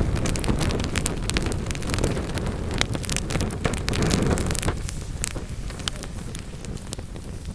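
Wood fire burning in a fireplace: a low rushing rumble of flame with frequent sharp crackles and pops from the logs, the rumble easing off about five seconds in.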